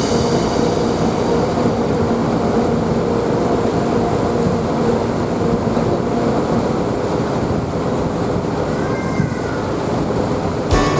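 Passenger ferry's engine running with a steady drone, mixed with a constant rush of water and wind.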